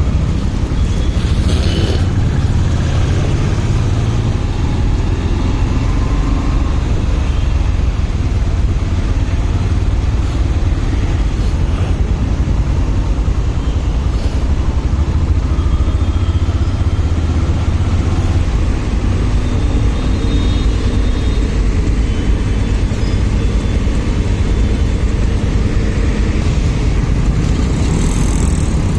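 Motorcycle running steadily while being ridden, with a constant low rumble of engine and road noise.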